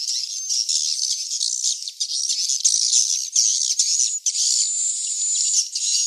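Swiftlet chicks twittering in a dense, continuous high-pitched chatter of many overlapping chirps, a recorded swiftlet-house lure call.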